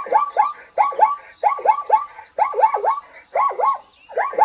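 An animal calling in quick runs of two or three short notes that each rise and fall in pitch, the runs repeating about six times.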